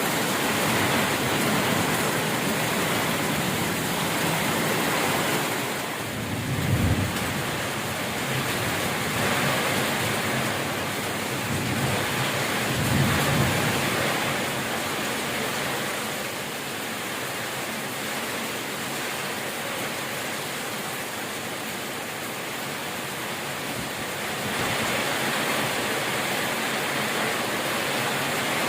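Steady rain hissing, with two low rumbles of thunder, the first about a quarter of the way in and the second a few seconds later; the rain softens somewhat in the second half and picks up again near the end.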